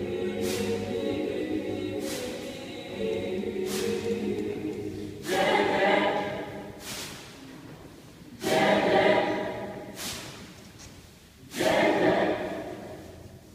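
A cappella choir singing, with no instruments. A chord is held for a few seconds, then the choir sings three loud swelling chords that each fade away, with a sharp percussive hit about every second and a half. The singing dies down near the end.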